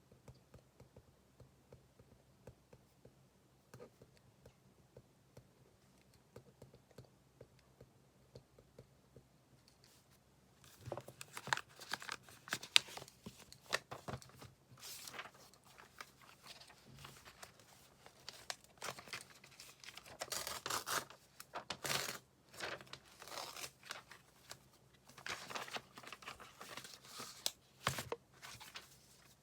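Paper handled close by: faint light ticks, then from about ten seconds in, loud irregular rustling, crinkling and tearing in clusters.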